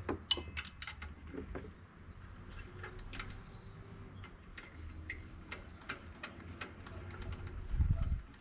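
Irregular light clicks and taps, a few each second, over a faint low hum, with a short low thump near the end.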